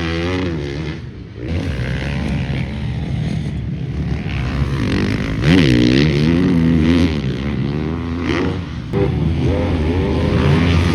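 Motocross bikes' engines revving on the track, the pitch rising and falling again and again with throttle and gear changes. The loudest stretch begins about halfway through.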